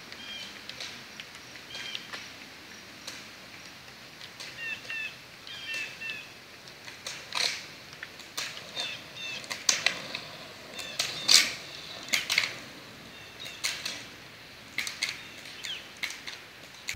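Small birds chirping in short, repeated notes, with scattered sharp clicks or scrapes. The loudest click comes about eleven seconds in.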